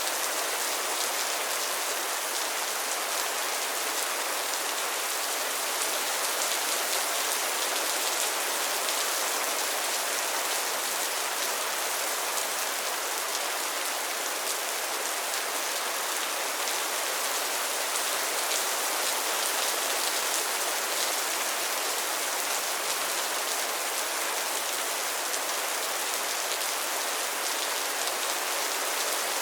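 Steady rain falling on pond water and lily pads: an even, unbroken hiss of many small drops, mostly high-pitched.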